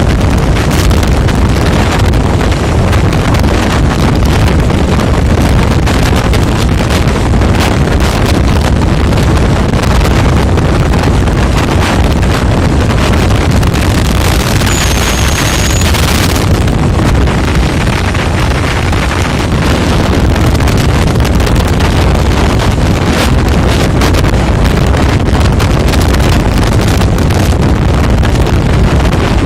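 Wind rushing hard over the microphone, with the steady low rumble of a moving vehicle underneath. About halfway through, a brief brighter hiss rises with a short, high whistle-like tone.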